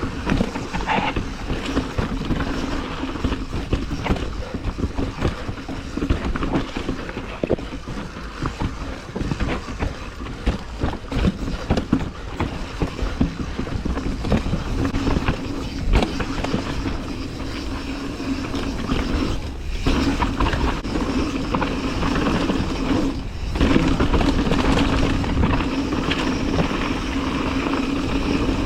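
Mountain bike riding down a dirt trail: steady tyre rumble with frequent knocks and rattles from the bike over bumps and roots. The sound briefly cuts out twice, about two-thirds of the way through.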